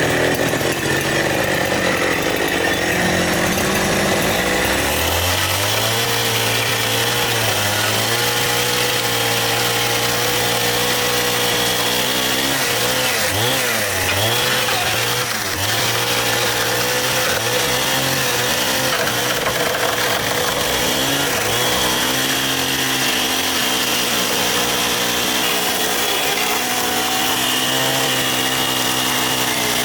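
Two-stroke chainsaw running continuously. Its engine note holds steady but dips in pitch a few times about halfway through.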